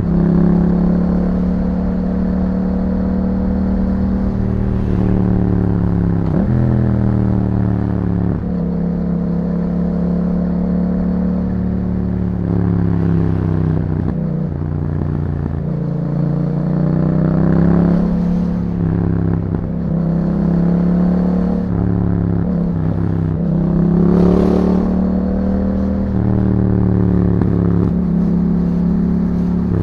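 The 689 cc parallel-twin engine of a 2021 Yamaha MT-07, breathing through an Akrapovič exhaust, heard while riding. Its pitch climbs and drops over and over as the rider works the throttle and shifts gears.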